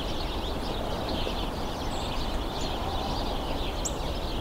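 A hidden flock of small birds chattering, with many overlapping short chirps, and a thin high call twice. A steady low rumble of background noise runs underneath.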